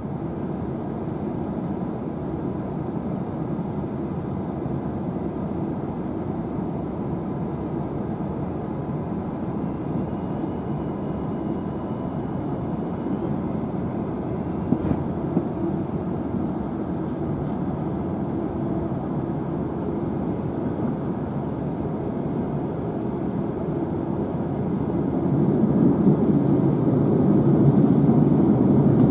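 Cabin noise inside a Queensland Rail NGR electric multiple unit on the move: a steady rumble of wheels and running gear on the track. It grows louder about 25 seconds in.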